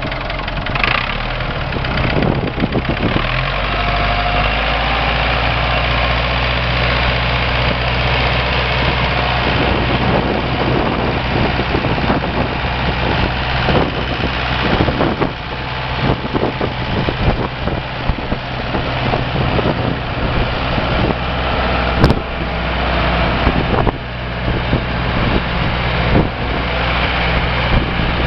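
1993 Ursus 4512 tractor's diesel engine running steadily, its note changing about three seconds in. There is a sharp click about two-thirds of the way through.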